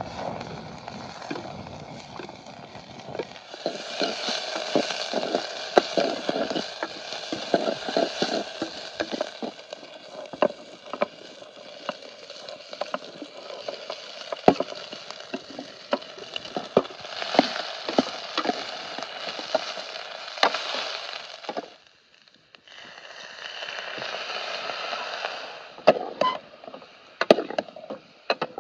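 Diced goat blood and onions frying in hot oil in a pot over a wood-fired camp stove: a steady sizzle with frequent sharp pops and crackles. It breaks off for about a second roughly three quarters of the way through, then resumes.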